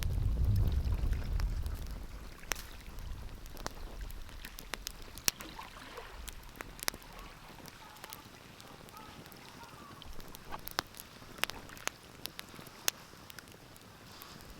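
Wood fire crackling, with irregular sharp pops and snaps over a soft hiss. A low rumble fades away in the first two seconds.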